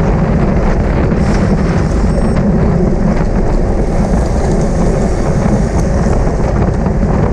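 Heavy wind noise on a bicycle-mounted camera's microphone while riding at race speed, a steady loud rushing.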